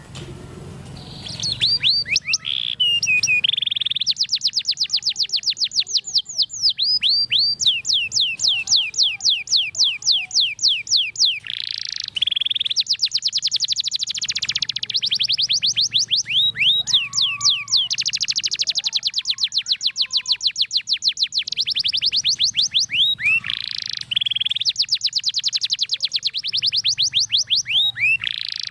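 Domestic canary singing a long, unbroken song about a second in: rolling trills of fast repeated high notes, roughly ten a second, one phrase running into the next with changes in pitch and speed.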